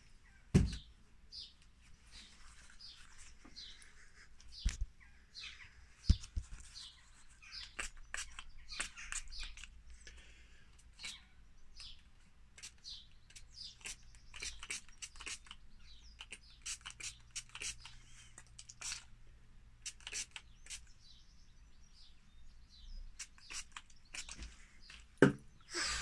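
Small birds chirping and tweeting in quick, scattered bursts, with a few dull knocks in between.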